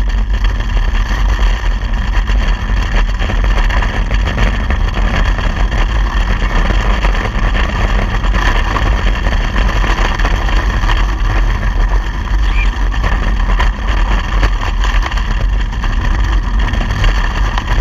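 Strong wind buffeting the microphone: a loud, steady, rushing noise with a heavy low rumble.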